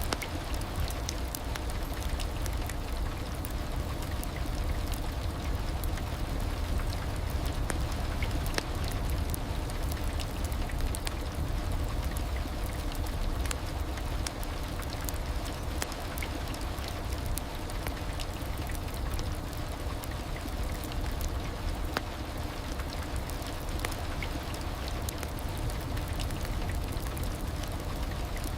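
Heavy rain falling steadily: an even hiss over a low rumble, with many scattered sharp drop ticks.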